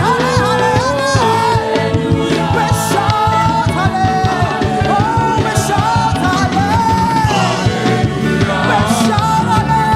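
Live praise-and-worship band music: drums and bass keep a steady groove under a gliding, held melody line.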